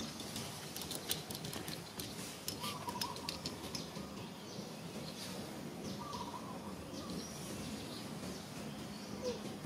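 Outdoor ambience with a bird giving a short, slightly warbling call twice, about three and a half seconds apart, and a small rising chirp near the end. Scattered light ticks come in the first second or so.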